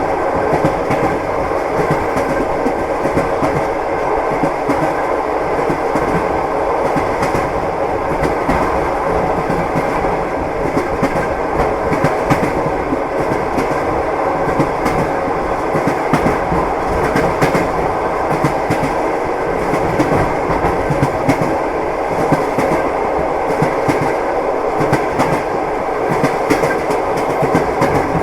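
Train wheels clattering over the rail joints as a railway carriage runs steadily along, with a constant rumble and a run of short knocks throughout.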